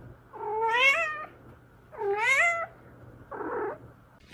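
Domestic cat meowing: two long, drawn-out meows that rise and then fall in pitch, followed by a shorter, rougher call near the end.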